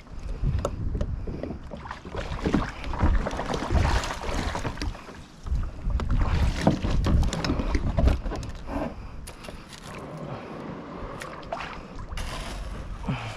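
Kayak being worked through shallow water: irregular knocks and splashes from the paddle and hull, with wind buffeting the microphone.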